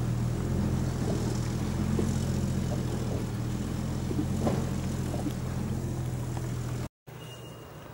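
Jeep Cherokee engine running steadily at low revs as the SUV crawls up a rough dirt track, easing off slightly. It cuts off abruptly about seven seconds in, leaving a much quieter background.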